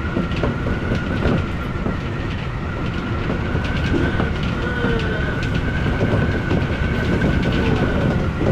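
Odakyu electric commuter train running at speed, heard from inside the front car. There is a steady rumble of wheels on rail, light clicks and clacks over the track, and a steady high-pitched whine held throughout.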